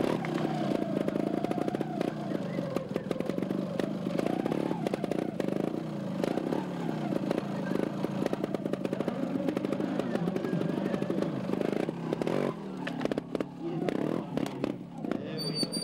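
Two-stroke trials motorcycle engine revving and blipping as the bike is ridden over rocks, its pitch rising and falling throughout, with short knocks of tyres and metal on rock.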